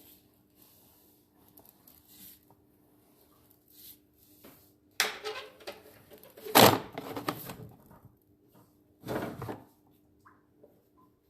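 Sewer inspection camera and its push rod knocking and scraping in the drain pipe as it is pulled back out. It is faint at first, then a cluster of sudden knocks and scrapes comes about five seconds in, the loudest near the middle, and one more knock follows about two seconds later.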